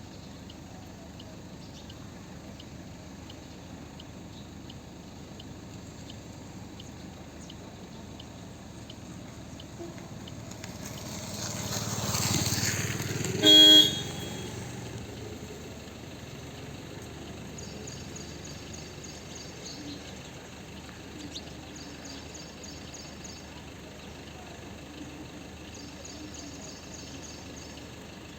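Outdoor traffic sound: a vehicle passes, swelling to a peak about halfway through, and a horn gives one short toot, the loudest sound here. Faint high chirps tick evenly in the first third, and short bursts of high twittering come later.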